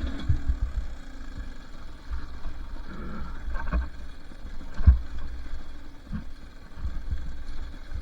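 Two-stroke dirt bike engine running on a trail ride, under a steady low rumble, with several sharp thumps, the loudest about five seconds in.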